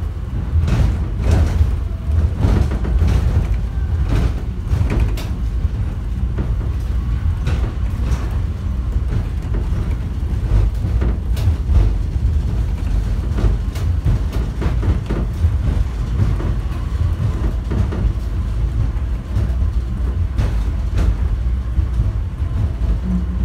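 Steady low rumble inside an airport subway train car standing at a station platform, with scattered knocks and clicks.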